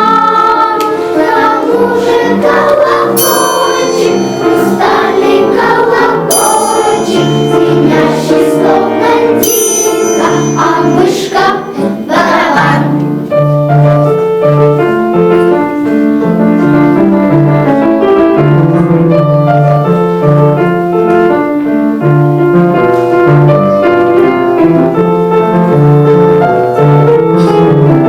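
A children's choir sings with instrumental accompaniment, marked by a few bright ringing strikes. About halfway through the singing stops and the accompaniment, piano-like notes, plays on alone.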